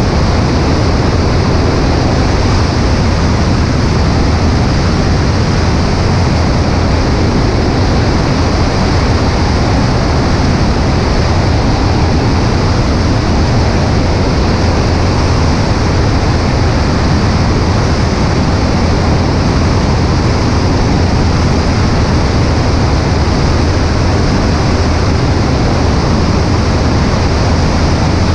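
Cessna 140A's engine and propeller droning steadily in flight, under heavy wind rushing over a wing-mounted microphone.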